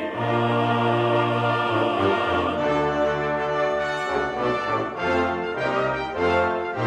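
Orchestral music with brass and a choir, playing sustained chords.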